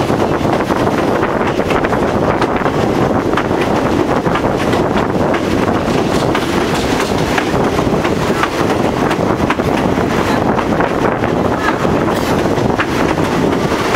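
Passenger train running along the track, heard from inside a carriage: a steady rumbling rush of wheels on rails and air, with scattered light clicks of the wheels.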